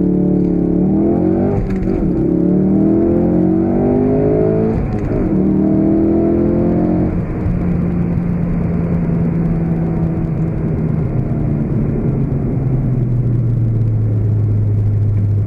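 2016 Ford Focus RS's 2.3-litre turbocharged four-cylinder engine accelerating hard, its note climbing and dropping at upshifts about two and five seconds in. It then settles into a steady lower drone, which steps down lower still near the end.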